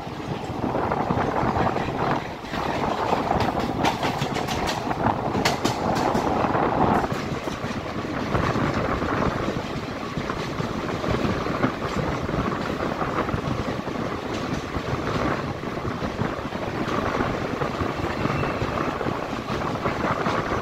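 Tungabhadra Express passenger coach running along the track at speed, heard at its open window: a steady rumble of wheels on rails, with a run of sharp clicks between about three and seven seconds in.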